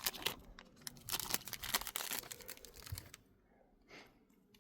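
Foil wrapper of a trading card pack being torn and crinkled open, a dense crackle for about three seconds that then drops away to faint handling.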